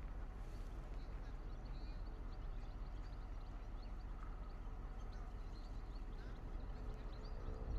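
Small birds chirping in quick, short calls over a steady low outdoor rumble.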